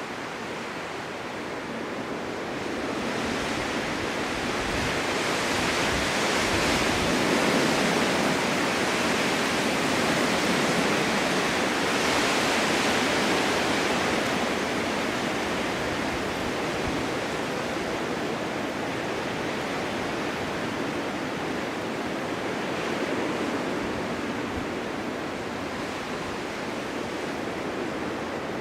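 Strong wind blowing in gusts. It swells over the first few seconds, blows hardest for a stretch, then eases to a steadier blow.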